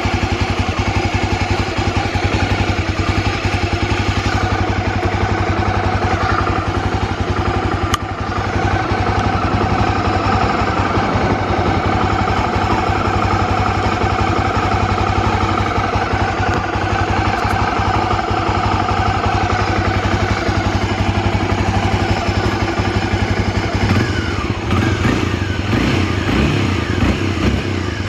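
Honda XL250 Degree's air-cooled single-cylinder four-stroke engine running steadily, with a short click about a third of the way in, then revved up and back down a few times near the end. It revs up cleanly, with no abnormal noise.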